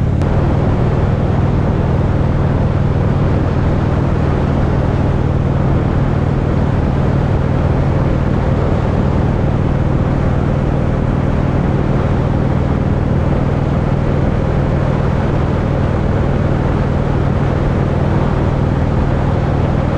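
Motorcycle running at a steady cruising speed, its engine a constant low drone under steady wind rush, with no change in speed.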